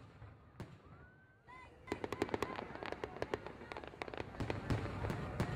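Fireworks: a few scattered pops and a short whistle, then from about two seconds in a dense, steady crackle of many sharp pops.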